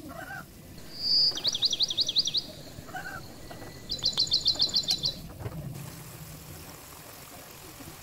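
A songbird singing two short phrases: a whistle and a run of quick falling notes about a second in, then a fast high trill about four seconds in. Beneath it runs the faint hiss of potato wedges deep-frying in oil.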